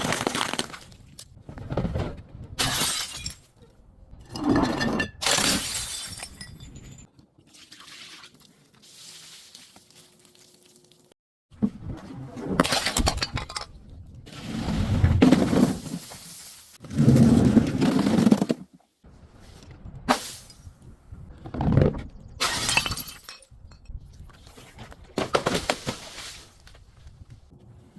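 Glass breaking and shattering again and again, one crash every second or two, with a quieter lull about a third of the way through.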